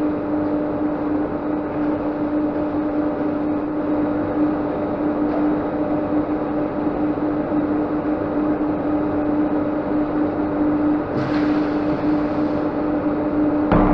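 Tyre-shop machinery running with a steady motor hum and a strong pitched drone. About eleven seconds in, a hiss joins the hum and holds on.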